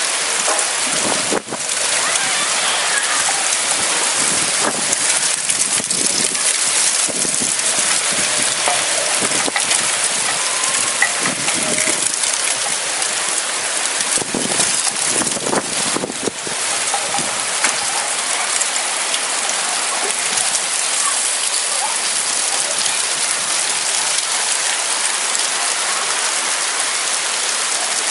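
Heavy thunderstorm rain pouring steadily, with a few louder spatters of drops striking close by.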